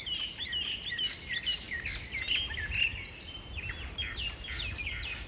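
Several birds chirping at once: a dense run of short, quick hooked calls overlapping one another, over a low rumble.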